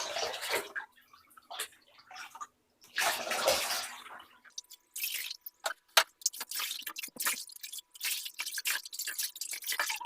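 Bath water being poured from a cup over a cat in a bathtub: a pour at the start and another about three seconds in, then a run of short splashes and drips.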